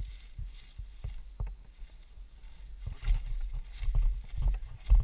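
Uneven low rumble with irregular bumps and knocks, like wind buffeting and handling noise on the microphone; no engine is heard running.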